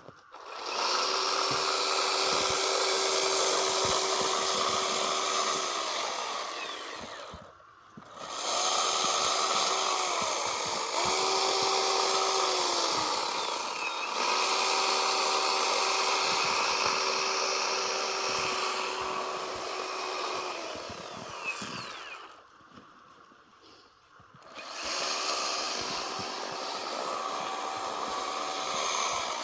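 Chainsaw cutting into a block of packed snow, running at high revs with its pitch sagging at moments as the chain bites. The sound drops away twice, briefly about a quarter of the way in and for about two seconds near the end.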